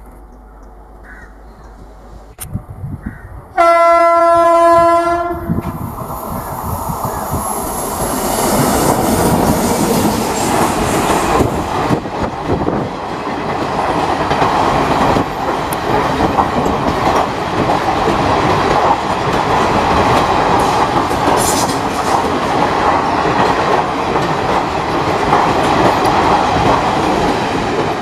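Indian Railways electric locomotive sounding its horn once, one steady blast of about two seconds, a few seconds in. The train then runs past close by, its wheels clattering over the rail joints in a loud, continuous rumble.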